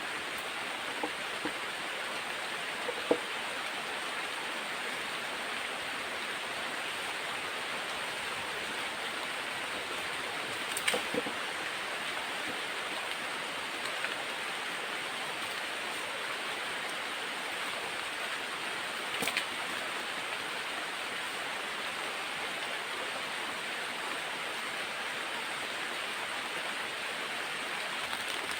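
Steady, even hiss of rushing water from heavy rain and flowing water, with a few short sharp ticks, the clearest about eleven seconds in.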